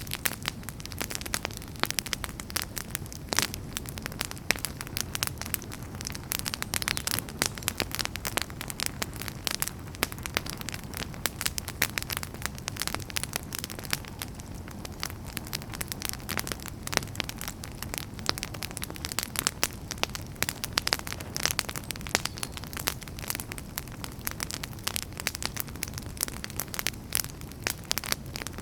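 Wood fire burning in a fireplace, crackling with many sharp, irregular pops and snaps over a steady low rumble of flames.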